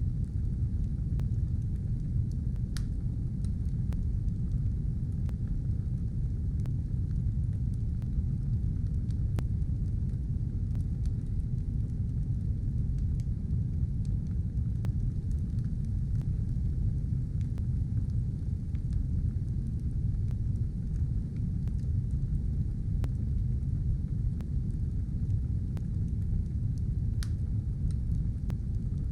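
Fire burning: a steady low roar with a few sharp crackles scattered through.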